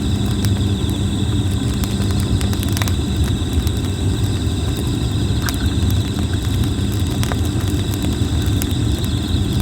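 Campfire of burning red plum wood crackling, with scattered sharp pops over a steady low rumble, while insects trill continuously in a high pulsing drone.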